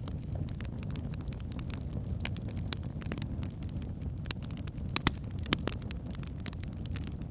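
Log fire in a fireplace burning, with a steady low rumble of flames and irregular sharp crackles and pops, the loudest a little after five seconds in.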